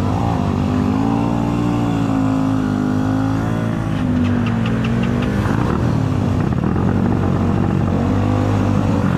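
Enduro dirt-bike engine running under load, its pitch rising and falling with the throttle, with a short run of quick clicks about four seconds in.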